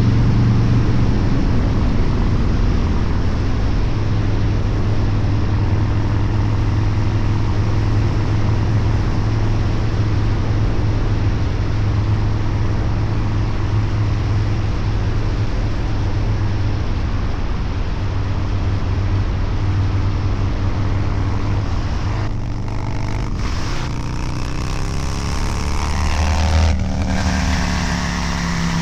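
Harley-Davidson Low Rider's 129-cubic-inch V-twin with a Cycle-Rama CR485 cam and Two Brothers Racing exhaust, running at a steady cruising note while riding. About 22 seconds in the throttle eases slightly, then the engine rises in pitch as it picks up, with a brief dip near the end before settling at a higher note.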